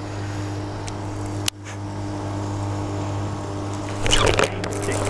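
Steady low mechanical hum of a motor on a jon boat, with a sudden break about one and a half seconds in and a brief louder rustling noise around four seconds in.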